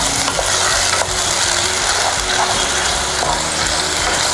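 Ground masala paste sizzling steadily in hot oil in a steel kadai, with a wooden spatula stirring and scraping through it now and then; the paste is being fried until the oil separates.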